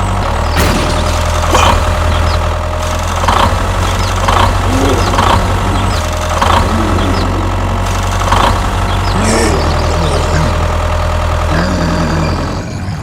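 Mini tractor engine running steadily, with about seven sharp knocks scattered through it; the engine hum drops away shortly before the end.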